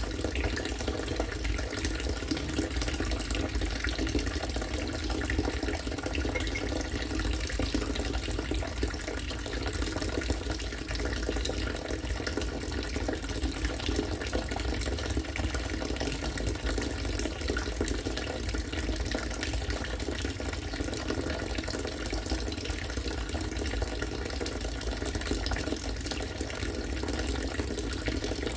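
Rainwater from a rainwater-harvesting system falling steadily into collected water, a continuous splashing pour like a running tap.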